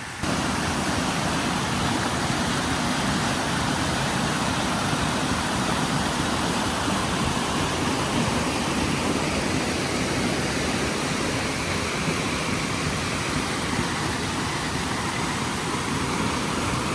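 A river flowing in a steady rush of water.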